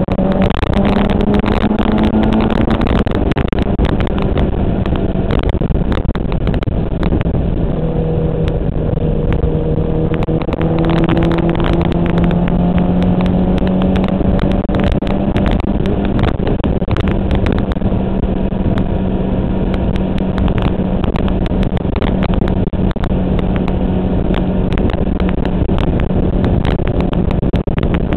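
A 1994 Suzuki GSX-R750's inline-four engine running at a steady cruise, its note easing down slightly a few seconds in, under heavy wind rush with crackling buffeting on the microphone.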